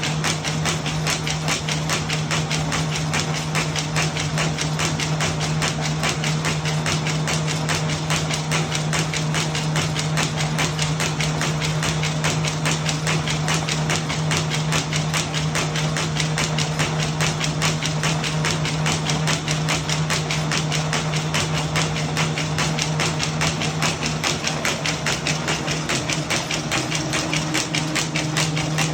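A machine running with a fast, even knocking over a steady low hum.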